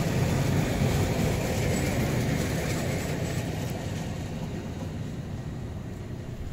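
Narrow-gauge passenger train's carriages rolling on the rails as they go past, the sound steadily fading as the train pulls away.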